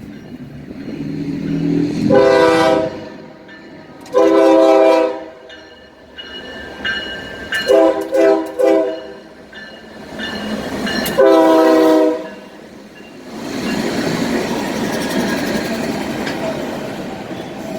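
Norfolk Southern freight locomotive's air horn sounding the grade-crossing signal: two long blasts, a short one, then a long one. About a second later a steady rush of train noise follows as the train rolls by.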